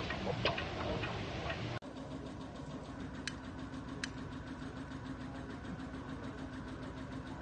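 An engine running steadily with an even ticking beat over a low hum, with two sharp clicks a little after the start of the run. Before it, about two seconds of clicking and clatter that stops abruptly.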